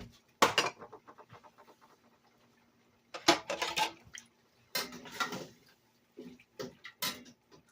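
Cookware clattering: a sharp clank about half a second in, then bursts of knocking and scraping, like a metal utensil against a pot and wok, over a faint steady hum.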